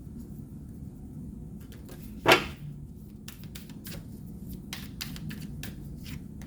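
Tarot cards being handled and laid down on a surface: one loud slap about two seconds in, then a quick run of short card flicks and taps.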